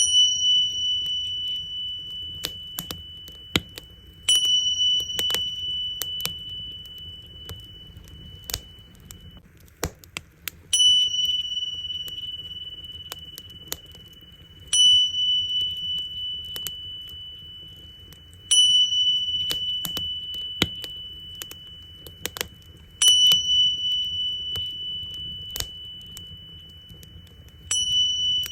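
Tingsha cymbals struck together seven times, about every four seconds, each strike a single high ringing tone that slowly fades. A wood fire crackles underneath with sharp pops.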